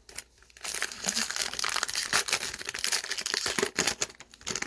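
Crinkly foil wrapper of a Topps baseball card pack being torn open and handled, a dense crackling with many small sharp crackles lasting about three and a half seconds.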